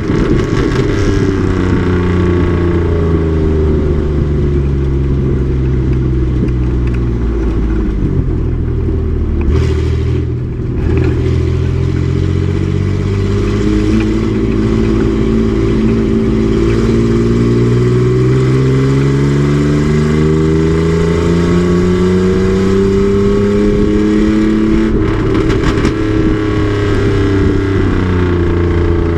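Race truck engine running hard on track. Its pitch falls for several seconds as it slows, dips briefly about ten seconds in, then climbs steadily for over ten seconds under acceleration before falling again near the end.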